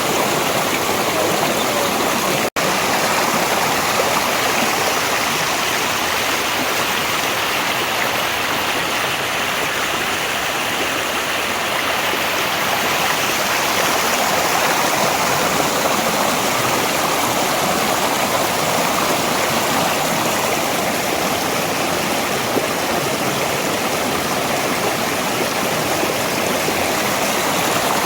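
Valley stream water flowing in a steady, even rush, with a momentary break in the sound about two and a half seconds in.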